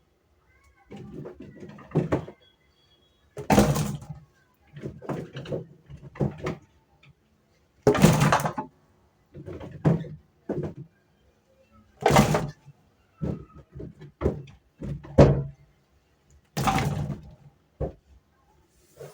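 Irregular knocks, thuds and rustles of household items being handled and set down, with four louder scraping or sliding bursts about every four seconds.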